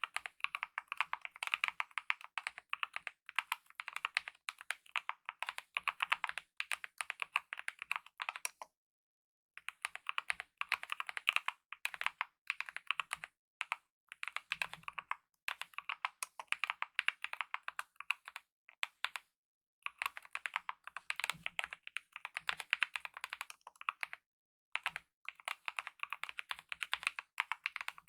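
Fast typing on a Kemove mechanical keyboard with lubed optical red linear switches and DSA-profile keycaps, a quick stream of keystrokes. The runs break off briefly several times, longest for about a second about a third of the way in.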